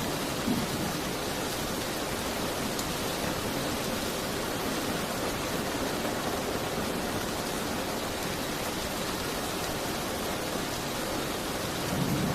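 Steady rain, an even unbroken hiss, with a soft low rumble swelling near the end.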